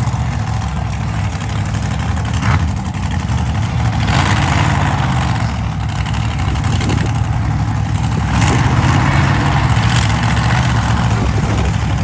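Monster truck engine running loud, revved up in repeated surges every second or two over a steady low rumble.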